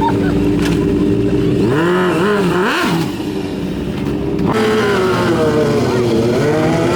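Motorcycle engine running and revving, its pitch swooping up and down several times, with an abrupt change in the sound about four and a half seconds in.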